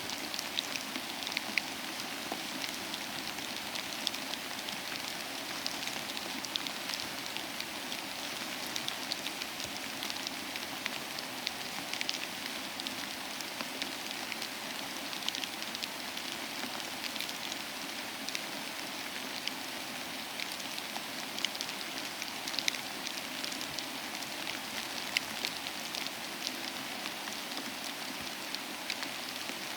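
Steady rain falling, an even hiss with many sharp individual drops ticking through it.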